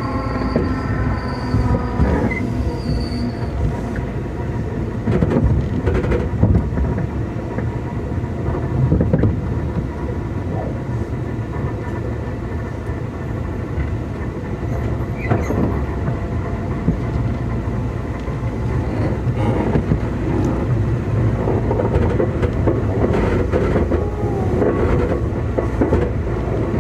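Keikyu 2000 series electric train heard from inside a motor car. A traction motor whine fades out over the first couple of seconds, then a steady low rumble of wheels on rail continues, with scattered clicks from the rail joints.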